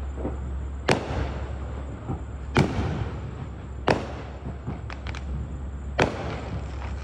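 Consumer fireworks going off: four loud bangs spaced one to two seconds apart, each trailing off with a short crackle or echo, and a few smaller pops between the third and fourth bang.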